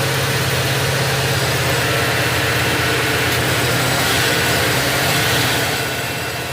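Alternator test bench spinning a rebuilt Bosch 90 A alternator with a freshly replaced bearing, running steadily under test. There is a strong low hum under a broad, even hiss, and the level drops a little near the end.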